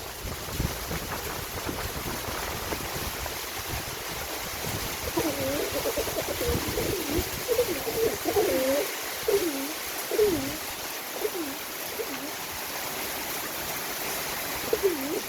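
Pigeon cooing: a run of low, rolling coos starting about five seconds in and lasting several seconds, then one more coo near the end, over a steady hiss.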